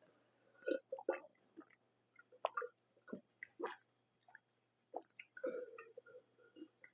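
Close-miked chewing: soft, irregular wet smacks and small clicks of a mouth eating food.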